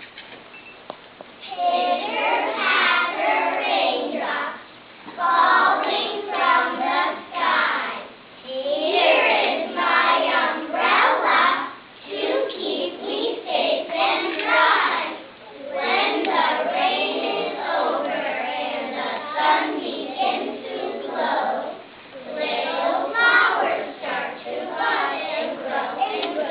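A young child reciting a poem aloud in a sing-song voice, phrase by phrase with short pauses between lines.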